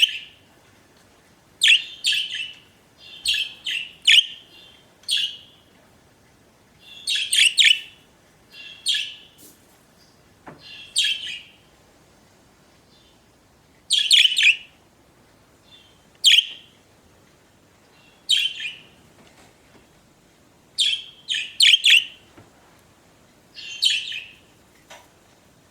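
Pet budgerigars chirping and warbling in short bursts every second or two, with brief quiet gaps between them.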